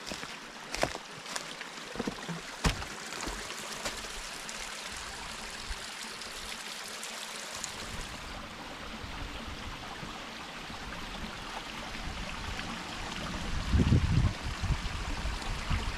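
Small rocky creek running steadily. A few sharp knocks in the first three seconds and a low rumble near the end.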